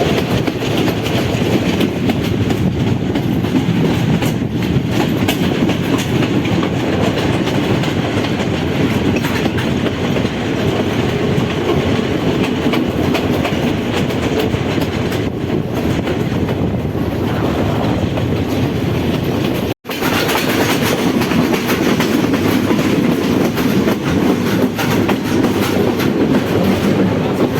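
Passenger train running steadily on the rails, with the continuous noise of wheels and carriages. The sound drops out for an instant about twenty seconds in.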